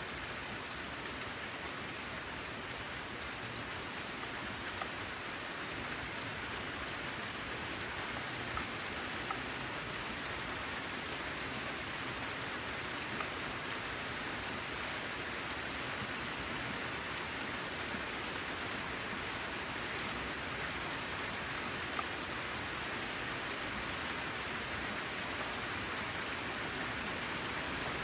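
Steady rain falling on a corrugated zinc roof, with a few louder single drops ticking out of the hiss.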